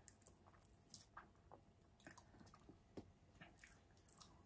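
Faint chewing: scattered small mouth clicks of someone eating, the clearest about a second in and again about three seconds in.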